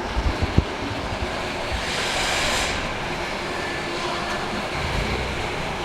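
A roller shutter door rattles and rumbles as it opens, with a few knocks at the start. Beneath it is a steady low rumble from the Ford Fiesta's engine running through its newly fitted Cobra cat-back exhaust.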